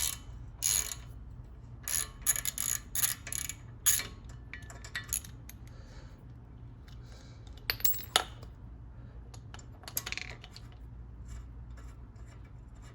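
Socket ratchet wrench clicking in short strokes while backing out a small bolt on a brake rotor, with several quick clicks in the first few seconds. After that come sparser metal clicks and a couple of sharp clinks of tool on metal.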